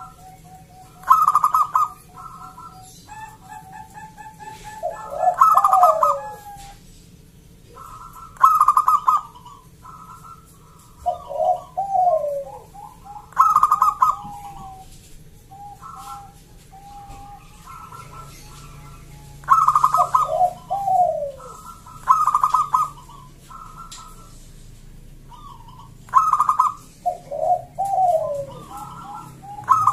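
Zebra doves (perkutut) cooing: short bursts of rapid notes repeated every few seconds, with lower falling notes in between.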